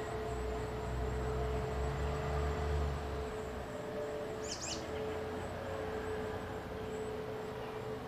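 One short, high bird chirp about halfway through, over a steady background hum and a low rumble that fades out in the first half.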